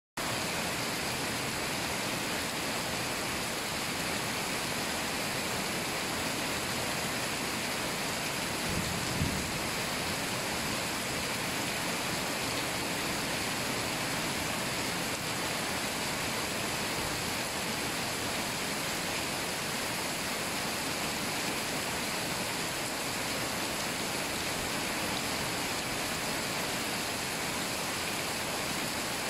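Heavy rain falling steadily on trees and vegetation, an even hiss throughout. A brief low thump comes about nine seconds in.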